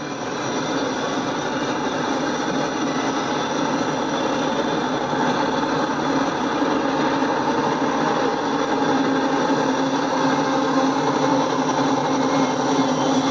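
Double-stack intermodal freight train rolling past with a steady rush of wheels on rail, then the diesel locomotives trailing at the rear coming by, their engine drone growing louder toward the end.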